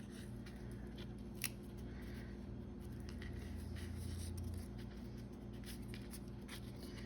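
Quiet paper-crafting sounds: soft handling of paper pieces with faint ticks and one sharp click about a second and a half in, over a low steady hum.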